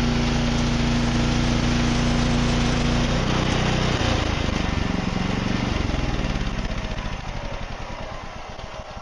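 Wood-Mizer portable sawmill engine running steadily, then throttled down about three seconds in, its pitch falling as it winds down and fades over the last few seconds.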